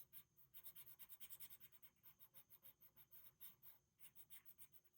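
Colored pencil scratching faintly on paper in quick, short, repeated strokes, as a shape is drawn and filled in.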